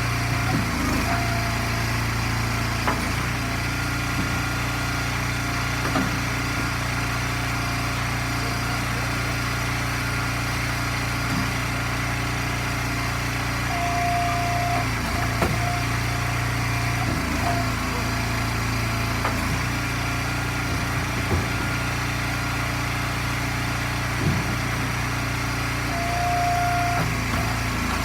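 Gas engine of an Eastonmade hydraulic firewood splitter running steadily, with a few sharp knocks scattered through.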